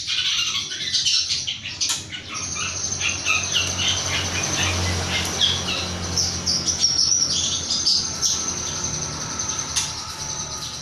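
Young long-tailed shrike calling in a rapid run of short, varied chirps and squeaky notes, over a steady high tone and a low hum.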